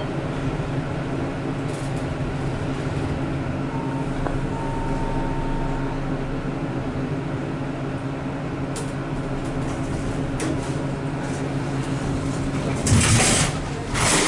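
Passenger elevator cab, a Schindler MT modernized by ThyssenKrupp, running with a steady hum of several even tones. A thin tone sounds for about two seconds a few seconds in, and two loud rushes of noise come near the end.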